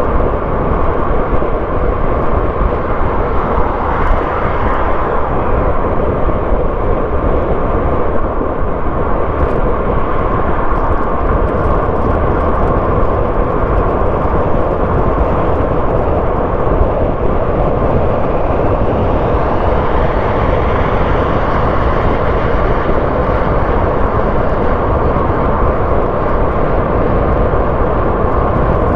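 A car driving on the road: steady engine and tyre road noise, with a faint rising whine about two-thirds of the way through.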